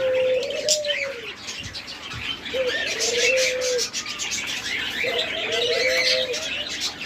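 Dove cooing three times, each a wavering, rolling coo about a second and a half long, over the busy chirping of many small cage birds.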